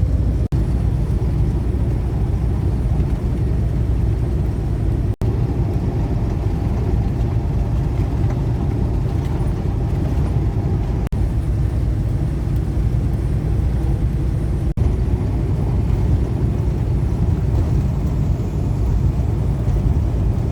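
Semi-truck running: a steady low rumble, with a few momentary dropouts.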